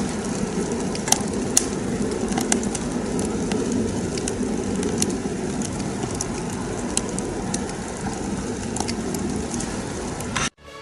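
Homemade pail-can rocket stove burning during a test fire: a steady low rumble of the fire drawing hard, with scattered sharp crackles and pops from the burning wood. The sound cuts off suddenly near the end.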